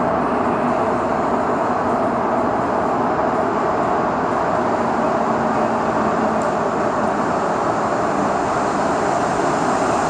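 Santiago Metro train running steadily: a continuous rumble and hiss with a faint, even whine.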